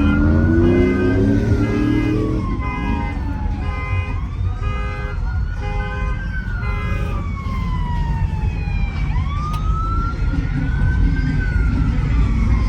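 Sirens wailing, their pitch rising and falling slowly, with several sweeps overlapping. In the first half a pulsed, horn-like electronic tone repeats a little faster than once a second. A loud low rumble of engines lies underneath.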